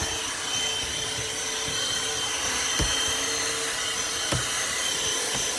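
Cordless handheld vacuum running steadily, a whine over a rush of air, with two brief knocks about three and four and a half seconds in.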